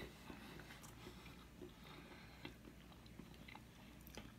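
Faint close-up chewing of a soft piece of baked pancake, with scattered small clicks.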